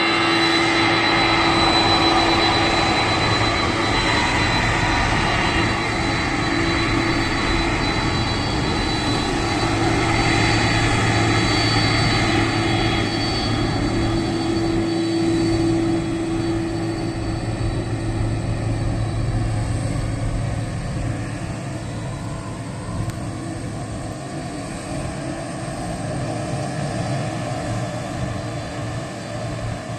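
Jet airliner engines running with a steady high whine over a dense rumble, slowly fading over the second half.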